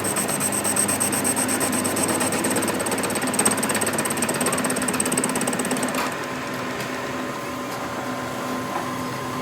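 A power tool running with a fast, even rattle and a high whine, stopping about six seconds in; a steadier, quieter engine-like hum carries on under it.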